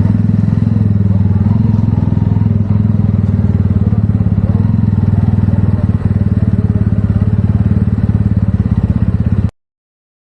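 TVS Ronin's single-cylinder engine running steadily, with a low, even, pulsing hum; the sound cuts off suddenly near the end.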